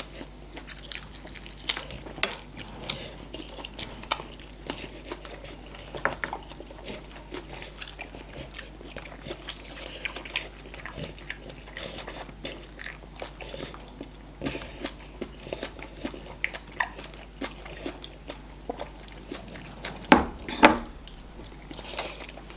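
People chewing and biting as they eat fufu, okra soup and meat, with many small wet clicks and smacks. Two louder thumps come near the end.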